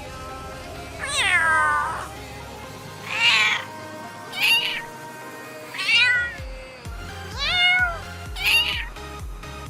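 Domestic cats meowing, six separate meows, the first a long one falling in pitch, over background music whose bass beat comes in about six seconds in.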